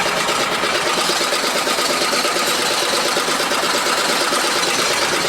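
Boat engine running steadily with a fast, even chatter.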